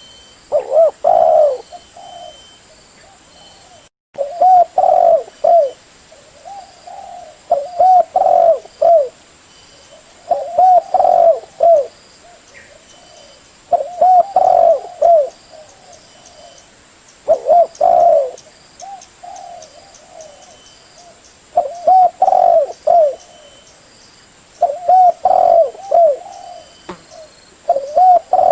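Spotted dove (Spilopelia chinensis) cooing: its advertising call of a few arched, throaty notes, repeated as a phrase roughly every three to four seconds, about eight times. The sound cuts out for an instant about four seconds in.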